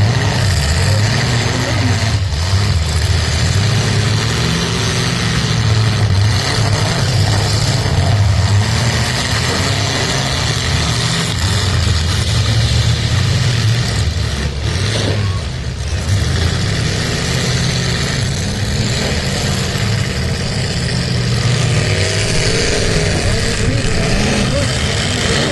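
Engines of several full-size demolition derby cars running hard together, their pitch rising and falling as they rev and accelerate.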